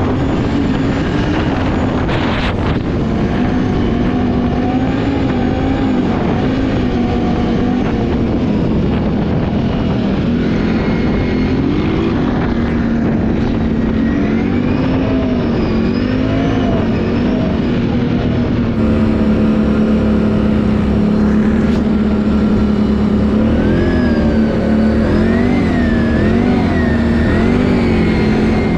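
Can-Am ATV engine running while riding, its pitch rising and falling with the throttle. About two-thirds of the way through it gets a little louder and holds steadier for a few seconds, then wavers up and down again.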